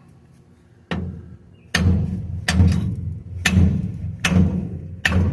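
Hammer blows on the old pinion nut threaded onto the pinion shaft of a 2002 GMC Sierra 1500's rear differential, knocking the pinion out of the housing. There are six strikes starting about a second in, roughly one a second, each ringing briefly.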